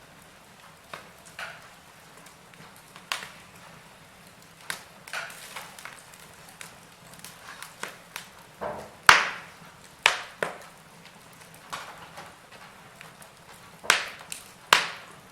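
Wood fire burning in a fireplace, crackling with irregular sharp pops and snaps over a low hiss. The loudest snaps come about nine and ten seconds in and again near the end.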